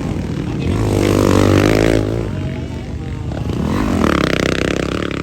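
Motocross motorcycles revving hard as they race past, in two loud passes, each engine note rising and then falling away.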